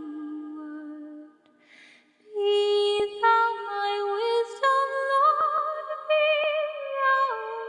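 A cappella hymn singing: layered voices in harmony holding long notes, with no words heard. It fades briefly about two seconds in, with a short breath, then the chord returns fuller, its upper voice wavering in pitch.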